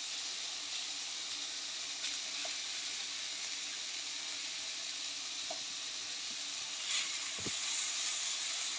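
Chopped vegetables sizzling steadily in hot oil in a steel pot as tomato and cabbage are added, with a few faint clicks.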